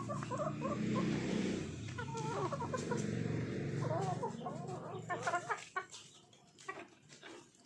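Chickens clucking in short, wavy calls over a steady low hum. After about five seconds the clucking and hum fade, leaving scattered sharp ticks.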